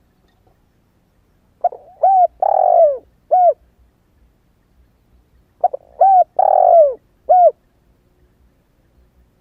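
Spotted dove cooing: a young bird's newly begun song. Two identical phrases about four seconds apart, each two quick coos, a longer drawn-out coo and a short final coo.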